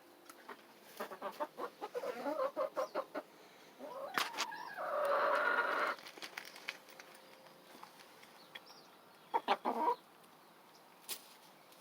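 Hens clucking in a quick string of short calls, then one longer drawn-out call about five seconds in, and a single short call later on.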